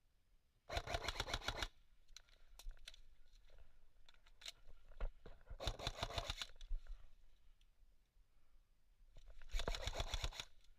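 Airsoft electric gun firing three full-auto bursts, each about a second long, a rapid even rattle of shots, with scattered single clicks between bursts.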